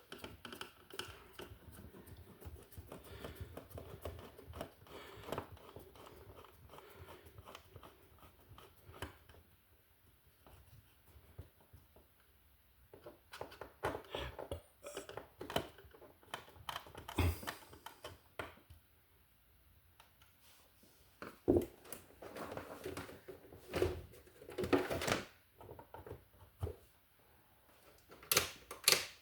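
Irregular clicks, taps and rustling of hand work on an electrical wall box, as a receptacle and its wires are handled and fastened. It is busiest in the middle and later part, with a sharper knock about halfway through and two sharp clicks near the end.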